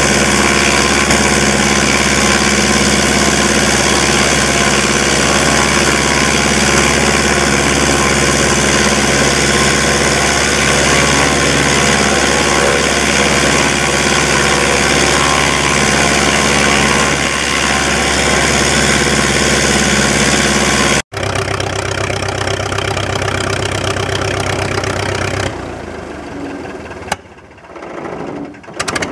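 Chipmunk's de Havilland Gipsy Major four-cylinder inverted inline engine and propeller running steadily during a ground run-up. About two-thirds through, the sound breaks off abruptly and comes back changed, then weakens and dips for a few seconds near the end.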